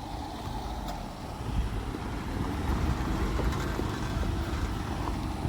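A motor vehicle's engine rumbling low and steady as it moves slowly along the road, growing a little louder about a second and a half in.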